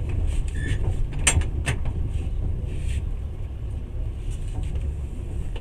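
Passenger train under way, heard from inside the carriage: a steady low rumble of the running gear, with the car body creaking and clicking in a cluster during the first two seconds, the sharpest creak about a second and a half in.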